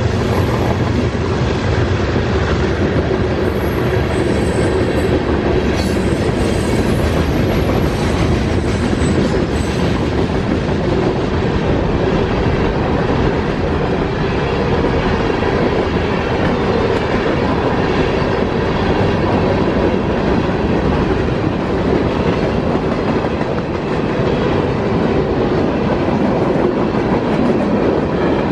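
CSX freight train's cars rolling past at speed, a steady loud rumble with the wheels clattering over the rail joints.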